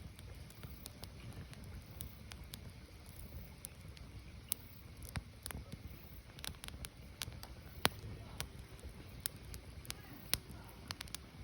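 Firewood burning, with irregular crackles and pops over a low steady rumble; the sharpest pops come a little under eight seconds in and about ten seconds in.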